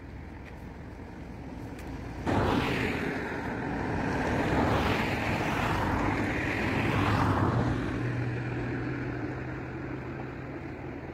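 A motor vehicle passing close by: its noise comes in suddenly about two seconds in, stays loud for about five seconds, then fades to a low engine hum.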